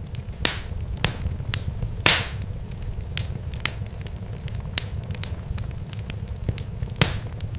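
Irregular sharp crackles and pops, a few of them louder with a short hissing tail, over a steady low rumble.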